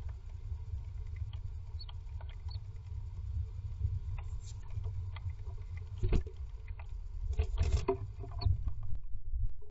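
Great tit moving on its nest inside a wooden nest box: scattered light scratches and taps of claws on nest material and wood over a steady low rumble. A louder flurry of scrabbling comes about six seconds in and again around seven and a half to eight seconds, as the bird leaves the box.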